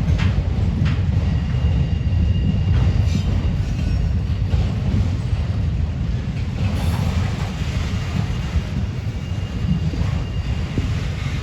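Freight cars of a manifest train rolling past, a steady heavy low rumble, with a few wheel clicks in the first second and a faint high wheel squeal about three seconds in.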